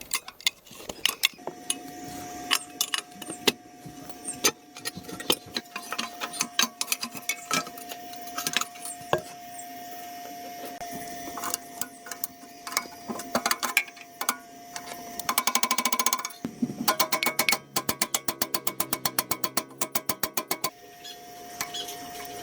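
Repair work on machinery: irregular metal clicks, taps and knocks of tools, then a run of rapid regular clicking, about seven a second, for a few seconds near the end. A faint steady high tone runs under most of it.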